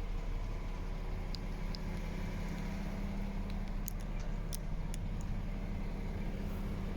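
MAN TGX 18.460 truck's six-cylinder diesel engine running steadily at an unchanging speed, with a few faint clicks.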